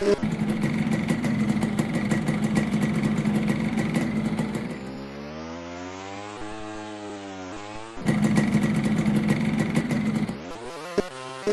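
Honda 125 motocross bike engine held at high revs, then backing off for a few seconds with the pitch dipping and climbing again, then opening up once more before easing off near the end.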